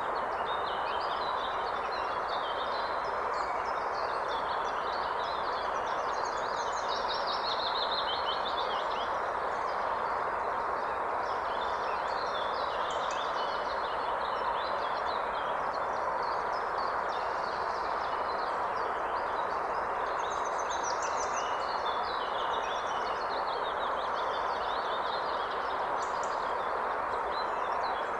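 Steady rush of a flowing river, with several songbirds chirping and singing over it throughout.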